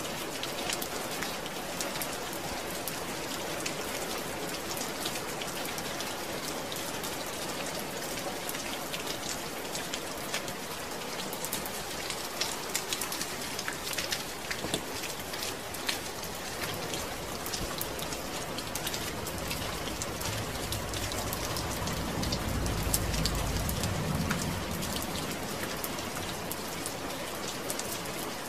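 Steady rain falling, with many distinct drops pattering. A low rumble swells and fades in the second half.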